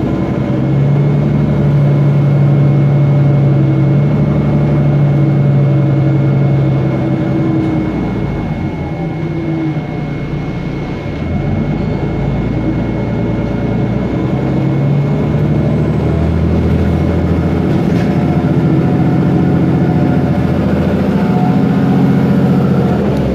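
Otokar Kent LF city bus's Ford Ecotorq diesel engine with its Voith DIWA automatic gearbox, running under way. The engine note is loud for the first several seconds, eases off around the middle, and builds again in the second half, with a thin steady high whine running along.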